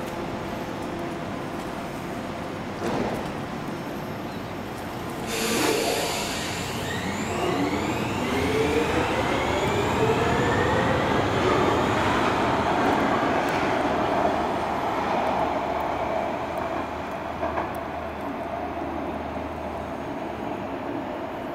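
Bombardier MG2/1 metro train pulling through the station, its electric traction motors whining in several tones that climb in pitch together as it gathers speed.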